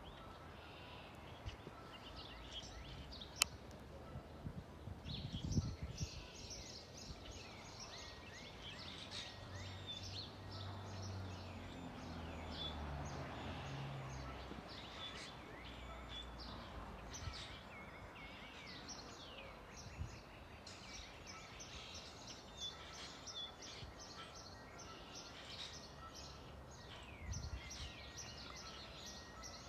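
Small birds chirping and twittering steadily. There is a sharp click about three seconds in, and a low hum rises and shifts in pitch for several seconds in the middle.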